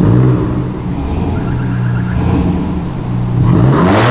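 Car engine idling steadily, then revved hard near the end: the pitch sweeps up and the exhaust gets much louder.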